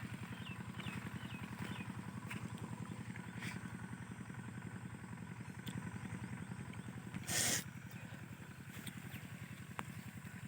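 Single-cylinder Usha 5 hp diesel engine running steadily with an even, rapid putter while it drives an irrigation water pump. About seven seconds in, a brief loud rushing noise.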